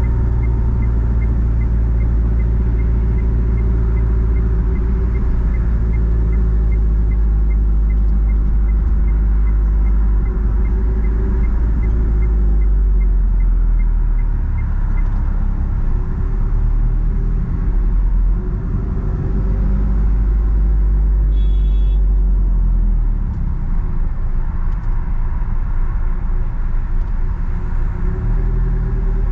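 Straight-piped four-cylinder engine of a Nissan Platina (Renault Clio-based sedan) running steadily while driving in traffic, a deep exhaust drone that eases and picks up with the throttle. A faint regular ticking runs through the first half, and a brief high chirp sounds about two-thirds of the way through.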